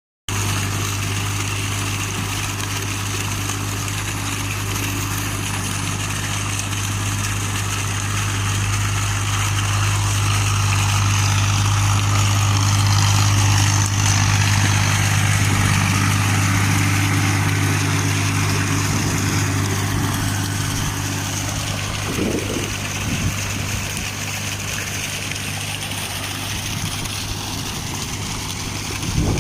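Tractor diesel engine running steadily, a low even hum that grows slightly louder midway and then eases back.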